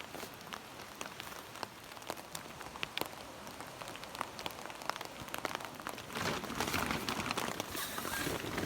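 Steady rain with many single drops tapping close by. It gets louder and denser about six seconds in.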